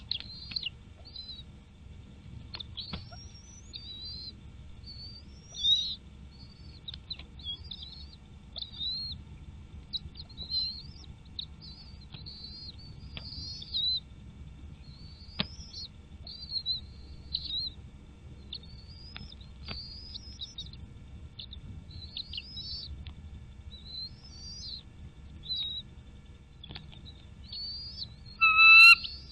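A bird chirping over and over: short, high chirps that rise and fall, roughly one to two a second, over a faint low rumble. Near the end comes a louder, lower call with a clear pitch.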